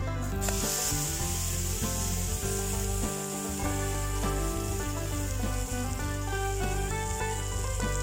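Okonomiyaki batter sizzling in a pan over a campfire, the sizzle coming in suddenly about half a second in and then holding steady. Background music plays throughout.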